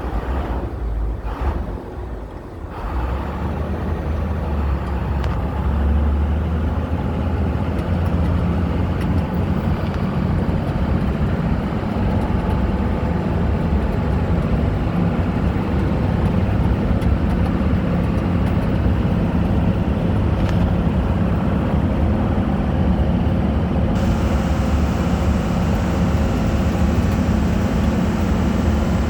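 Engine of an amphibious duck tour vehicle running steadily under way. Its level dips briefly and rises again about two and a half seconds in.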